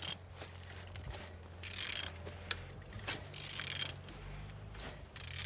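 An engine being turned over by hand through its gear drive, giving a mechanical ratcheting, rubbing sound in about four separate strokes. It turns freely, which shows the rotating parts are not seized.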